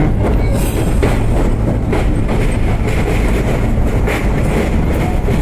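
R32 subway train running at speed on elevated track: a steady rumble of wheels on rail, with irregular clacks as the wheels cross rail joints.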